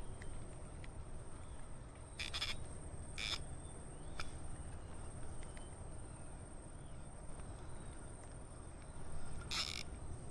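Outdoor ambience: a steady low rumble and a thin, steady high-pitched whine like insects. Three short hissing bursts break it, about two seconds in, again a second later, and near the end.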